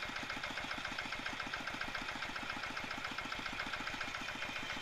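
Tractor diesel engine idling steadily, with even firing pulses at about eight a second. The engine has fresh piston rings and valve stem seals, fitted to cure heavy smoking, and runs smoothly at idle.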